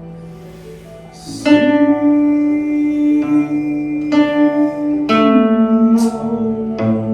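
String music: a slow melody of plucked notes over long held tones, growing much louder about a second and a half in.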